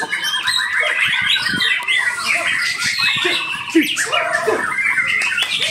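Many white-rumped shamas (murai batu) singing at once, a dense overlapping chorus of rapid trills and whistles.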